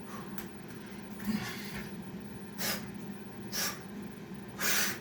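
A man breathing hard from exertion between exercise reps, with about four forceful, hissing breaths spaced roughly a second apart.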